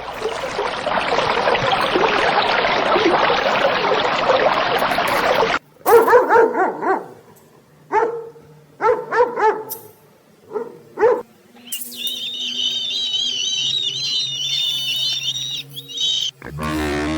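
A run of animal sound clips, one after another. First comes about five seconds of dense, noisy sound, then several short barks in quick groups, then a high warbling call near the end.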